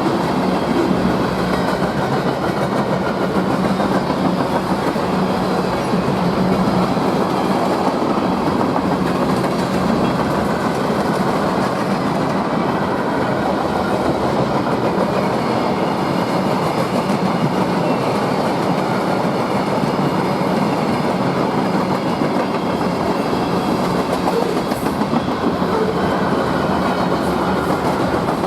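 Train cars rolling past at speed, steel wheels on the rails making a steady, continuous rumble with clickety-clack.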